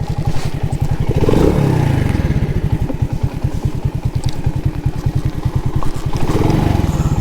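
Alfa moped's small four-stroke single-cylinder engine idling with a fast, even beat, with two brief rises and falls in pitch, about a second in and again near the end.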